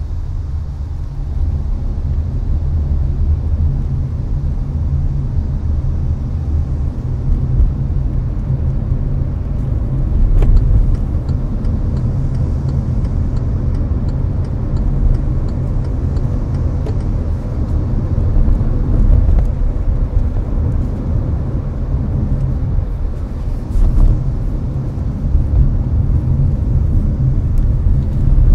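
Hyundai Avante driving at highway speed, heard as a steady low road and tyre rumble with the air conditioner blowing. A couple of brief thumps from the road stand out, about a third of the way in and again past the middle.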